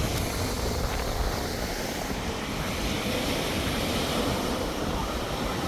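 Steady rushing noise of wind on the microphone and Caribbean surf, with a heavy low rumble.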